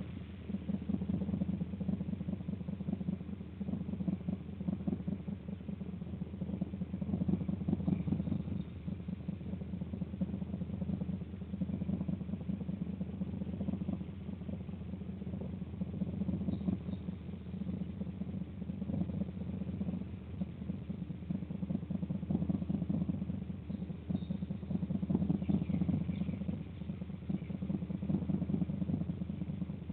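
A steady low mechanical rumble, like an engine running, with a few faint, brief high chirps now and then.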